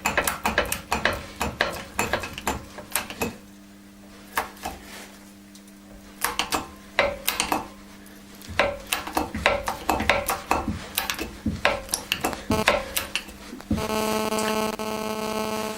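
Metal parts and tools clinking and clanking as they are handled and set up at a hydraulic press, with short quiet pauses. Near the end comes a steady buzzing hum that lasts about two seconds.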